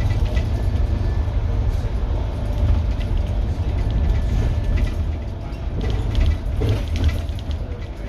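Scania N230UD double-decker bus's five-cylinder diesel engine running under way with a deep, steady rumble, loudness rising and falling a little as it pulls.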